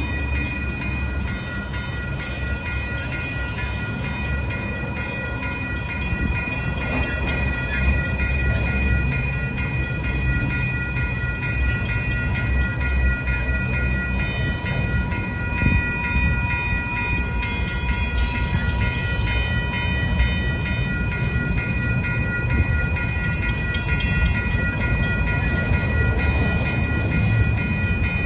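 Double-stack intermodal freight cars rolling past at close range: a steady rumble of steel wheels on rail, with a constant high ringing of several tones over it.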